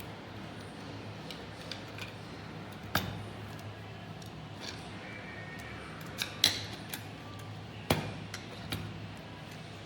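Scattered sharp clicks and knocks of parts and tools being handled during assembly, the loudest about three seconds in and near eight seconds, over a steady low hum.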